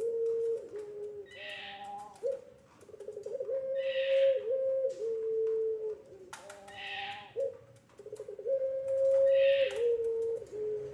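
Puter pelung, a long-calling breed of Barbary dove, cooing: long drawn-out notes, each held about a second and then stepping down in pitch, repeated phrase after phrase. A short hiss recurs every few seconds.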